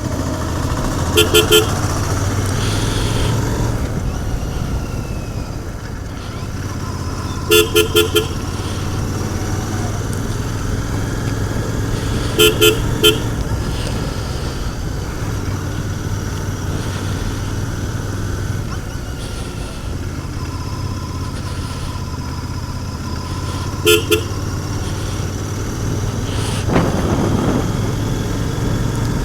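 Royal Enfield Continental GT 650 parallel-twin running at riding speed through its stock exhaust. A horn gives quick groups of two to four short toots, four times over.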